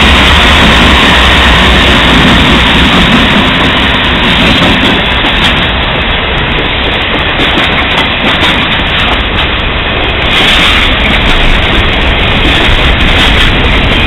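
Loud, steady noise of a diesel freight train passing close by: locomotives and then freight cars rolling along the rails.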